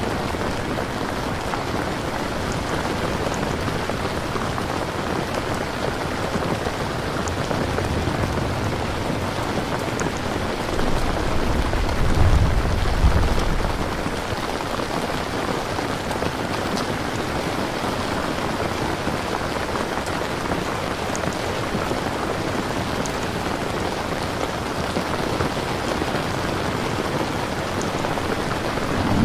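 Steady rain falling and pattering on surfaces, an even hiss throughout. A low rumble of thunder swells briefly about halfway through.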